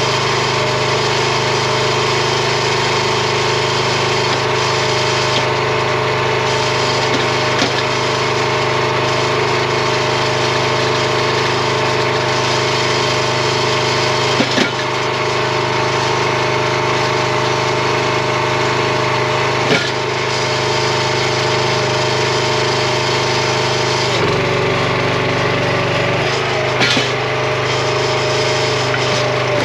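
Gas engine of a RuggedMade hydraulic log splitter running steadily, with about three sharp cracks as red oak splits. Late on, the engine's low note shifts.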